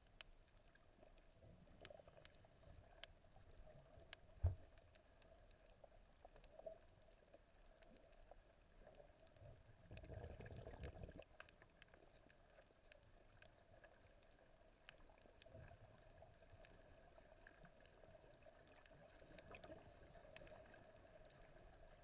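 Faint, muffled underwater sound through a camera housing: scattered small clicks and crackles over a low hum, with a short low thump about four seconds in and a brief low rumble of water movement about ten seconds in.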